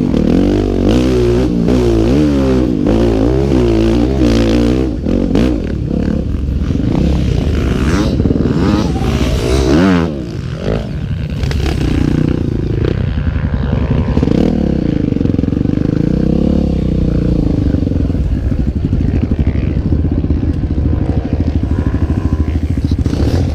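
Single-cylinder Honda Tornado trail motorcycle, bored out to 319 cc, revving hard up and down over rough ground, with clattering knocks about six to ten seconds in, then running more steadily at lower revs.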